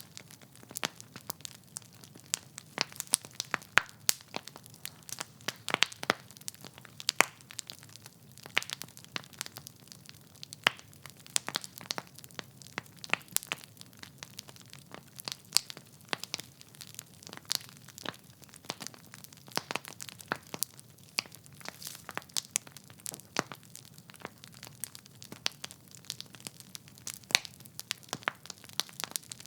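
Logs burning in a fireplace, crackling with frequent irregular sharp pops and snaps over a low, steady rumble of the flames.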